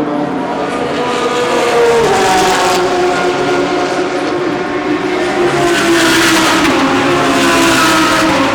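GT3 race car engines at full throttle, several cars' notes overlapping, the pitch rising and falling as they pass and change gear. The sound swells loudest near the end.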